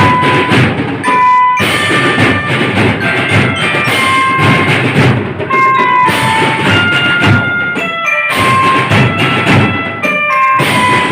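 A marching drum band playing: marching drums and bass drum keep a steady beat while bright mallet bells carry a melody of short held notes over them.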